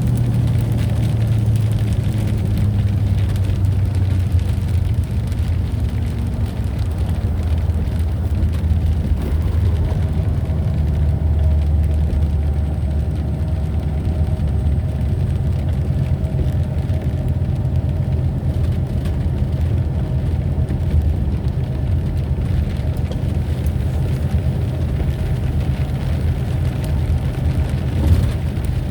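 Thunderstorm recording: a steady, deep rumble with a short knock about a second before the end.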